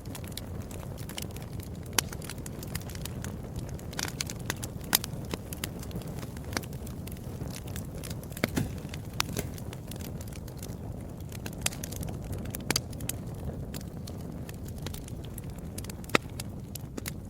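Wood fire crackling: a steady low rushing from the flames with irregular sharp pops and snaps from the burning logs, a few louder pops standing out.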